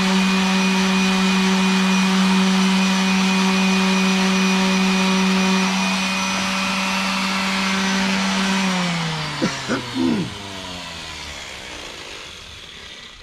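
Electric power sander running steadily on oak end grain, then switched off about eight and a half seconds in and winding down with a falling whine. A few short sharp sounds come as it slows.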